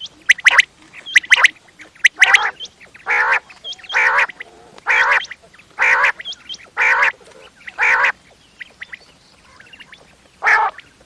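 Quail calling repeatedly, as used for luring quail. Short sharp calls come in quick pairs at first, then about seven longer, lower calls about a second apart, a pause, and one more near the end.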